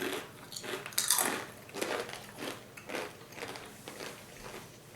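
Crunchy rolled corn tortilla chips (Takis) being chewed close to the microphone: irregular crunches about twice a second, the loudest about a second in.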